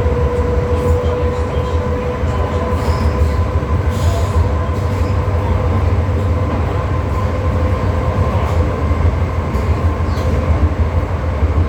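MTR M-Train metro carriage running between stations, heard from inside the car. The wheels on the track give a steady low rumble, and a steady humming tone dies away about halfway through, with a few faint light clicks.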